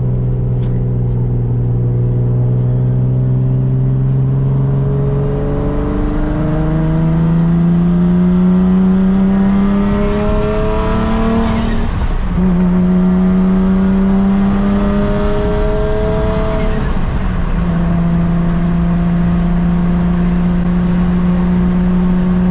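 Turbocharged Nissan 350Z VQ35HR V6 engine under way. It holds a steady note, then pulls with the pitch slowly rising, and the pitch drops sharply twice, about twelve and seventeen seconds in, as it shifts up, before settling to a steady cruise.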